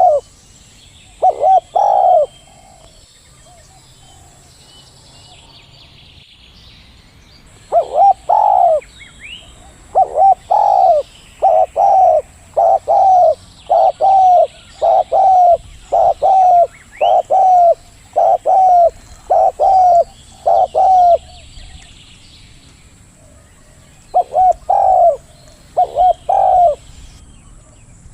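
Zebra dove cooing: loud, short rising-and-falling coo notes repeated in runs. Two notes come near the start, a long, evenly paced run of about twenty fills the middle, and a few more come near the end. Fainter high chirps of small birds sound behind.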